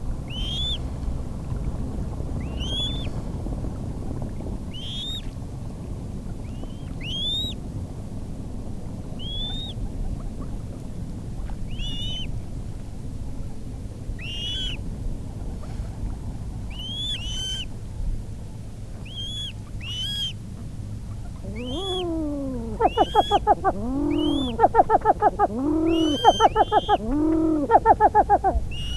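Coot calling: short, arching high notes repeating every second or two. About three quarters of the way through, a louder run of rapid, pulsing lower calls in quick clusters joins them. A steady low background noise runs underneath.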